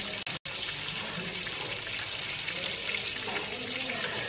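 Whole fish frying in hot oil in a pan, a steady sizzling hiss that cuts out for a split second near the start.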